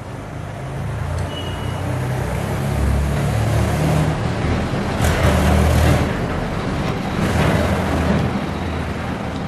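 A motor vehicle's engine and road noise close by, growing louder to a peak about midway, swelling again shortly after, then easing off.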